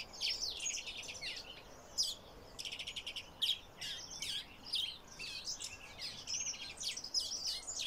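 Birds chirping in the background, many short overlapping calls, with a fast trill about two and a half seconds in.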